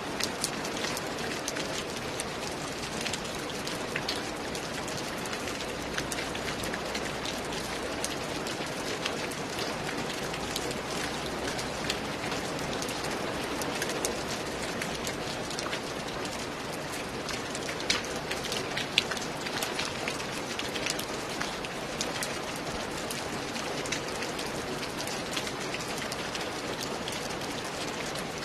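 Steady rain falling on a roof, with many separate drop hits heard distinctly over an even wash of rain.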